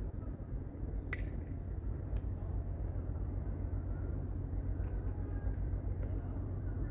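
Strong wind buffeting the microphone, a steady low rumble, with a single sharp click about a second in.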